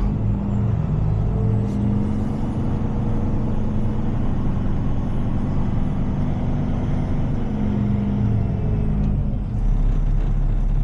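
Heavy tow truck's diesel engine running under light load at low speed, the engine note rising and falling a couple of times as the truck is manoeuvred.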